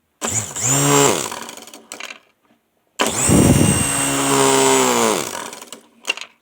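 Small electric motor of a toy RC helicopter, spinning its rotor blades on 12 volts from eight AA cells in series, well above its rated voltage. It whines up in pitch and winds down twice: a short burst, then a longer run of about two seconds before it spins down.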